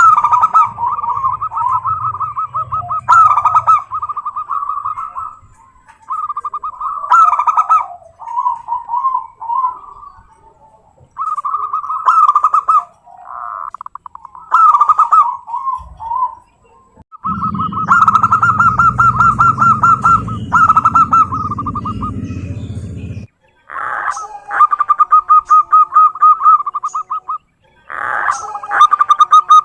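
Zebra dove cooing: repeated phrases of quick staccato notes with short pauses between them. A low rumble runs underneath for several seconds past the middle.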